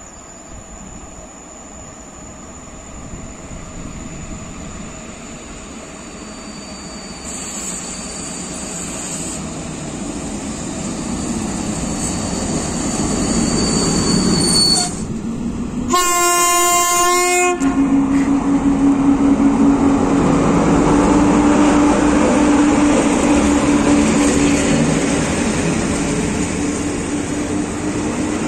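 PKP EU07 electric locomotive hauling an Intercity passenger train, its running noise growing steadily louder as it nears and passes. About halfway through, the locomotive's horn sounds one blast of about a second and a half, the driver's greeting. After the blast comes a steady hum and rolling noise as the carriages go by.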